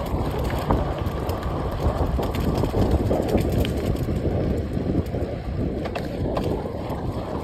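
Wind buffeting the camera microphone while riding: a steady low rumble with a few faint clicks.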